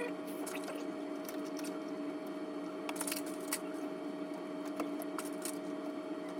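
Steady electrical hum with scattered light clicks and rustling, as small toy cars are handled and set on shelves.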